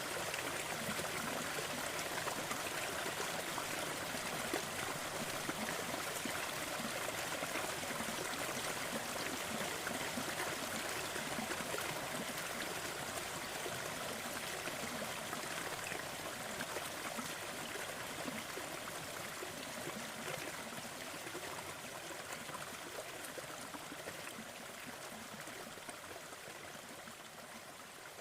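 Steady rushing water of a waterfall, slowly fading out over the second half.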